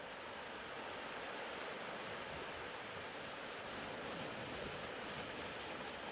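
Soft, steady ocean-wave ambience: a gentle wash of surf that swells slightly and eases.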